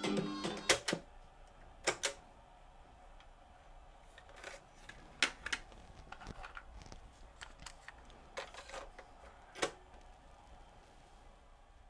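Music fading out at the start, then scattered sharp clicks and light knocks, about ten in all, some in close pairs, over a quiet background.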